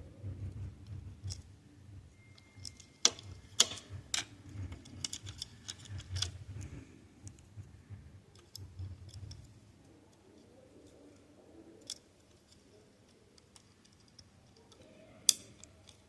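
Small plastic clicks and taps from handling the parts of an opened audio cassette, with low bumping handling noise through the first half and a few sharp louder clicks, the last near the end.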